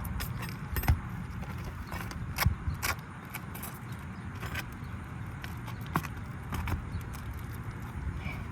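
Pry bar working under asphalt shingles to pull roofing nails: scraping with scattered metal clicks and a few sharper knocks, over a steady low rumble.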